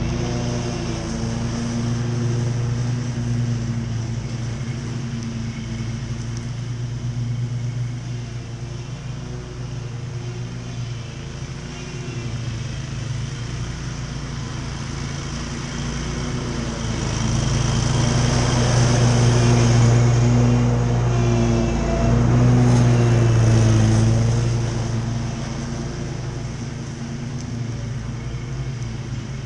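Commercial lawn mower engine running steadily under load while mowing thick grass, with blade and deck noise. It grows louder for several seconds past the middle, then eases back.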